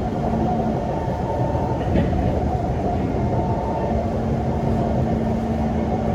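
Kawasaki C151 MRT train running, heard from inside the car: steady rumble with a low hum that drops out about a second in and comes back about three seconds later, and a single knock about two seconds in.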